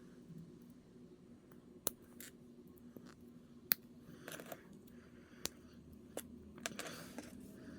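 Scattered sharp plastic clicks and snaps, about five of them, with brief rustles in between: small plastic model-kit parts being clipped from the runners and snapped together.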